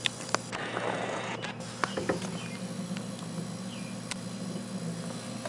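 A few sharp clicks and knocks and a short rustle of handling, over a steady low hum and faint chirps that recur every second or two.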